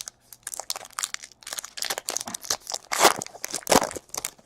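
Baseball trading cards being flipped through by hand: a string of short, papery swishes and snaps as one card slides off the next.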